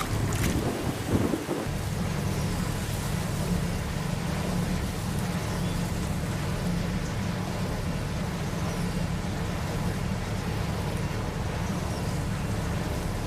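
Strong wind buffeting the microphone: a steady low rumble with a rushing hiss over it, and a few short clicks right at the start.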